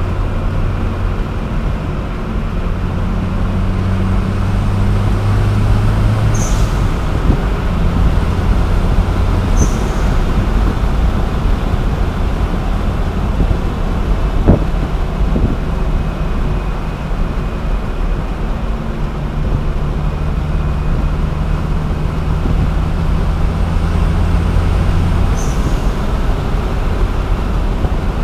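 Dodge Caliber SRT4's turbocharged four-cylinder engine, heard from inside the cabin while driving, over steady tyre and road noise. The engine drone changes pitch a few times, with short high hisses as it shifts, and there is a single sharp knock about halfway through.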